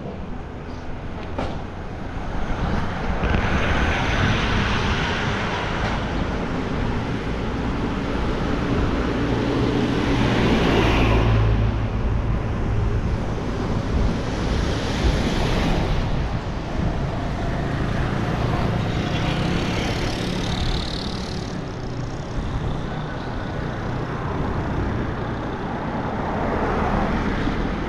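Street traffic: a steady low rumble of motor vehicles, with cars and larger vehicles swelling up and fading away as they pass, about five times.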